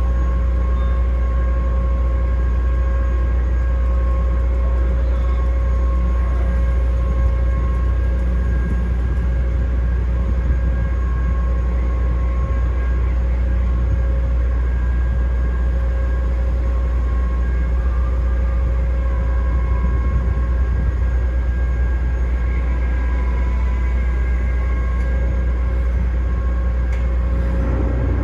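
The ferry New Awashima's engines running steadily while coming into port: a constant deep rumble with a steady high whine over it.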